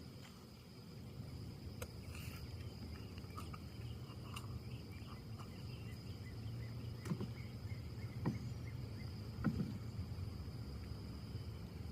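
Urban outdoor ambience of wind in trees over a steady low rumble, with an insect's thin high trill running throughout. A few short sharp ticks sound, three of them more clearly in the second half.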